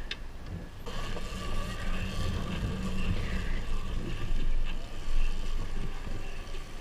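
A vehicle running, heard as a steady low rumble with a faint steady whine, under wind noise on the microphone.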